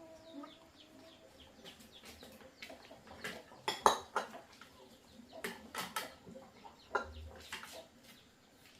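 Dishes and utensils clinking: a scatter of sharp clinks, the loudest about four seconds in.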